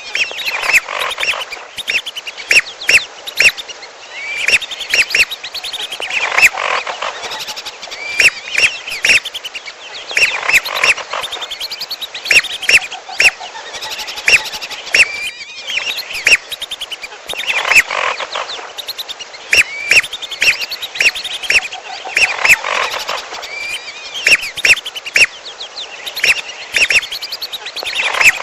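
Bird-lure recording of whistling duck calls mixed with another bird's calls: runs of short, sharp, high whistles, repeating in similar clusters every few seconds.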